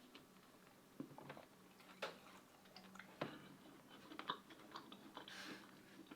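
Faint close-up chewing and mouth sounds of someone eating fast food, a scatter of small wet clicks and crunches.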